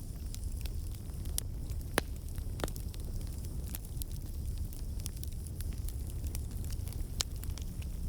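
Wood campfire crackling, with irregular sharp pops scattered through, the loudest about two seconds in, over a steady low rumble.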